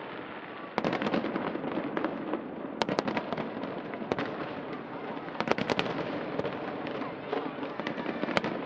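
Fireworks bursting aloft: a string of sharp cracks and pops, bunched thickest about a second in and again about five and a half seconds in, over a steady background din.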